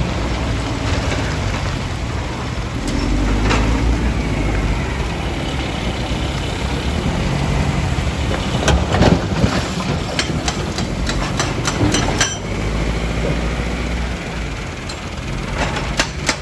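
Heavy diesel machinery engine running steadily, with a run of sharp clanks and knocks in the middle and two more near the end, typical of rock and steel striking as the machine works.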